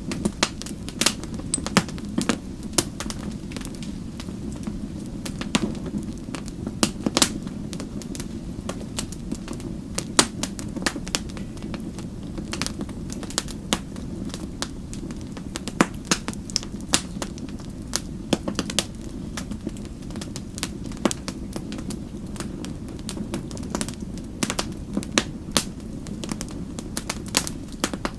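Fire crackling: irregular sharp pops and snaps, several a second, over a steady low rumble of the flames.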